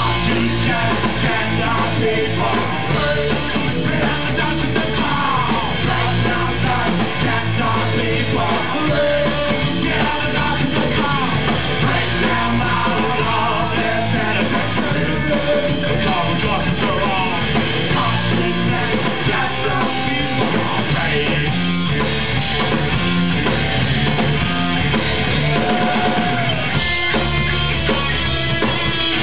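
Punk rock band playing loud live, with electric guitars and a drum kit driving a fast song and some yelled vocals over it.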